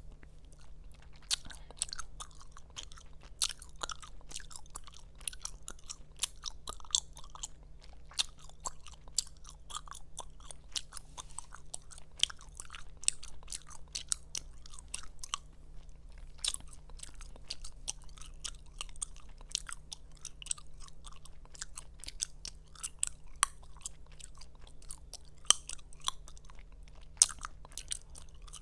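Close-miked gum chewing: wet mouth smacking and clicking in a fast, irregular stream, with a few much louder sharp snaps.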